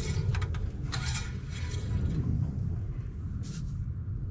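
Brief metallic scrapes and clicks of the engine oil dipstick being drawn from its tube and handled, over a steady low rumble. The clicks come mostly in the first second and a half, with one more near the end.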